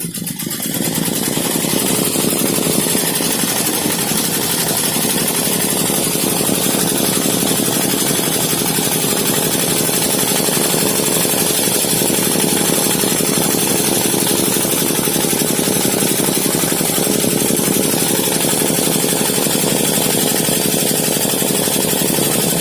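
12-needle high-speed embroidery machine starting up and then stitching steadily at speed, a fast, even run of needle strokes that comes up to full level within the first second.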